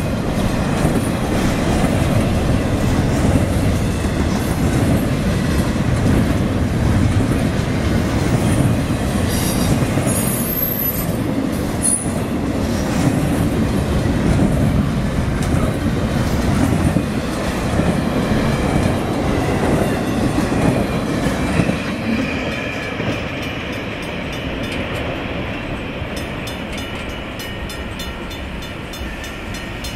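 Intermodal freight train rolling through a grade crossing: a steady rumble and clatter of wheels over the rail joints, with a brief high wheel squeal about a third of the way in. About two-thirds of the way through the last car passes and the rumble eases, leaving the crossing bells ringing on.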